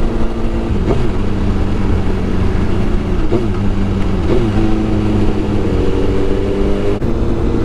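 A Suzuki GSX-R 1000 sport bike's inline-four engine running at a steady cruise, its pitch dipping and rising briefly a few times. The engine is heard from the rider's seat under heavy wind noise.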